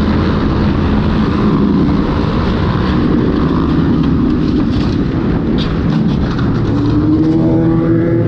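Motorcycle engine running at speed under a heavy rush of wind noise, its pitch rising near the end as it accelerates.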